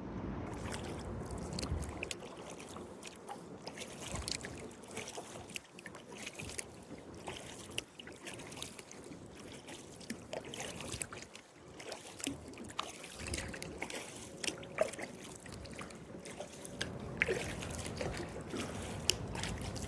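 Kayak paddle strokes in river water: irregular small splashes and drips of water running off the paddle blades.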